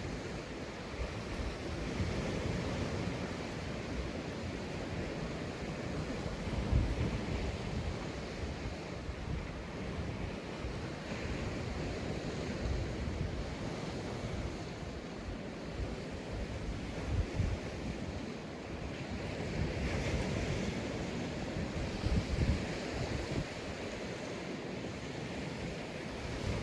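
Sea waves breaking and washing up a sandy beach, a steady surf hiss. A few short low rumbles of wind buffet the microphone.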